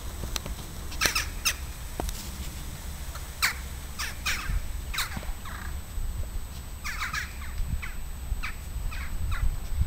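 Birds calling outdoors: a scatter of short calls, a few each second, some falling in pitch, over a steady low rumble.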